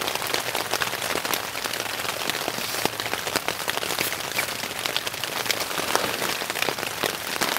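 Heavy rain pouring onto a tent's rainfly, heard from inside the tent as a dense, steady patter of drops on the fabric.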